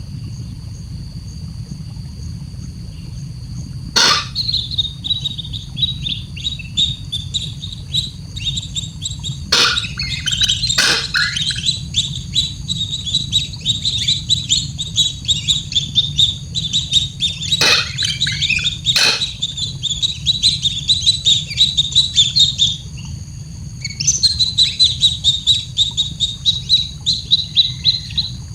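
Baby bird chirping in rapid, repeated runs of high chirps, several a second with a short pause near the end, typical of a nestling begging to be fed. A few sharp clicks sound over a steady low hum.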